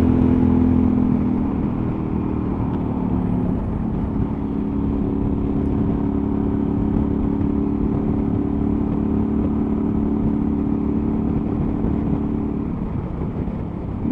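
Suzuki V-Strom 1000's V-twin engine running at a steady cruise, with wind and road noise. The engine note shifts slightly about a second and a half in, then holds steady, and eases off a little near the end.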